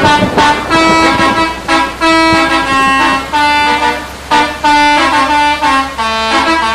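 Basuri-type 'telolet' multi-tone bus horn playing a melody: a run of held notes at changing pitches, in phrases broken by short pauses.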